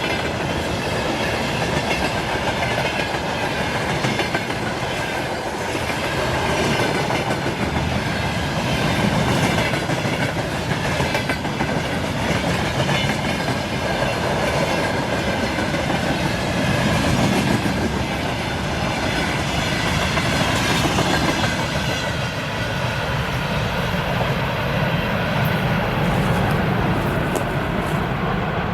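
A train rolling past on the main line, its wheels clattering over the rails in a steady rush of noise. The hiss in the upper range thins out near the end.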